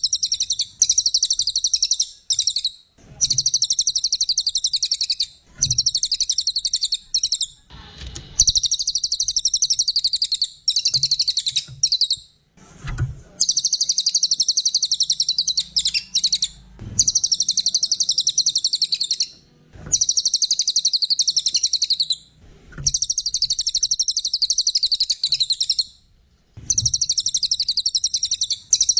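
A cililin bird singing a high, rapid, chattering trill, delivered in phrases of about two to three seconds repeated one after another with short breaks in between.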